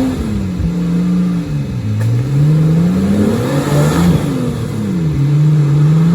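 Off-road 4x4 engine working under changing throttle: the revs drop, climb slowly for about two seconds, fall sharply about four seconds in, then hold steady.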